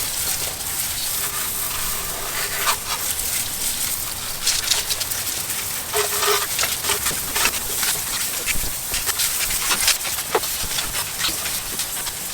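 Light spray of water from a garden hose rinsing a degreased engine bay: a steady hiss with irregular splatters as the water hits the engine, and a couple of brief squeaks.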